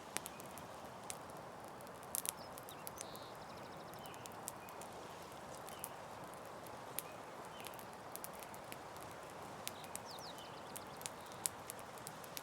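Campfire burning: a steady soft hiss of flame with sharp wood pops and crackles at irregular intervals, sometimes two or three close together.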